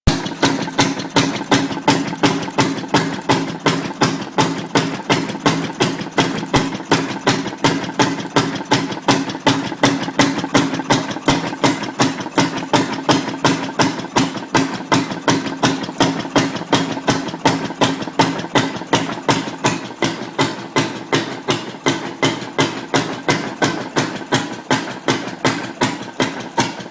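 Restored Uhler engine running steadily, with an even beat of about three to four strokes a second.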